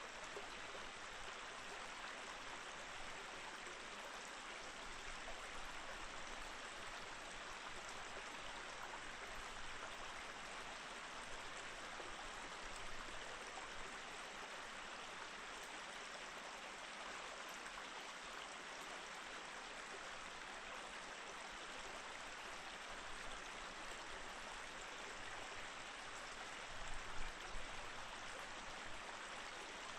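Mountain stream flowing steadily over rocks between snowy, frozen banks, an even rushing and babbling of water. A few brief low thumps come near the end.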